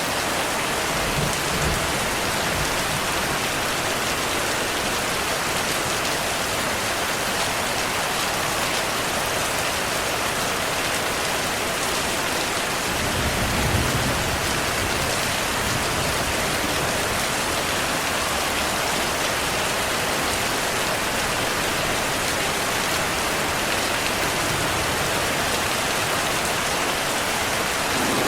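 Heavy rain falling steadily, with low rumbles of thunder twice: faintly about a second in and louder about halfway through.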